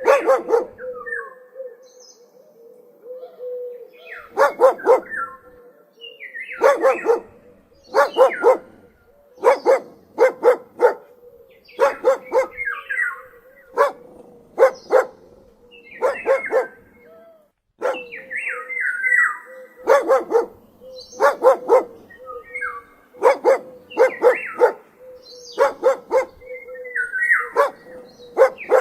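A dog barking repeatedly in short clusters of two to four barks, a new cluster every second or two, with a faint steady tone underneath.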